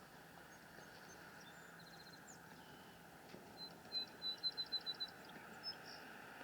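A bird chirping: a quick run of high notes, then a string of about seven short, evenly spaced high chirps, over a faint steady hiss of rain.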